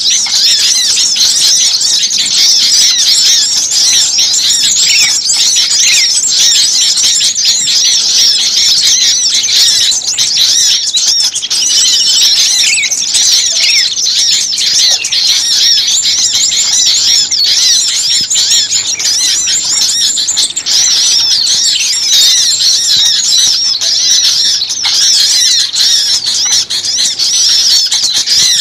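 A dense, unbroken chorus of many small songbirds chirping and calling over one another at once, high-pitched and noisy: an agitated small-bird lure recording used to draw birds in.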